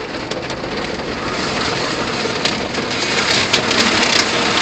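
Automatic car wash working over the car: a steady loud rush of water spray and spinning brushes, with a few sharp knocks in the second half.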